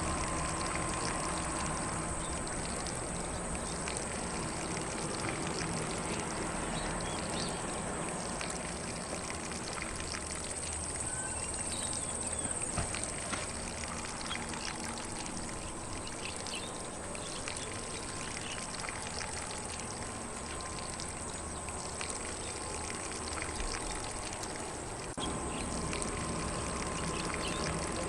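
Lawn sprinkler spraying water across grass, a steady hiss and patter, with faint birds chirping now and then.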